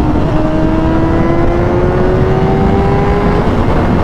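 2005 Honda CBR600RR's inline-four engine pulling through a gear while riding, its pitch rising slowly and steadily, then fading out about three and a half seconds in. Heavy wind rumble on the microphone underneath.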